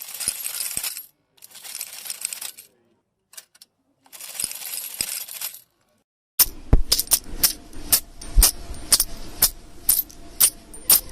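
Coins in three short separate bursts of jingling. Then a rapid run of about a dozen sharp, separate clinks as coins drop one after another, each ringing briefly.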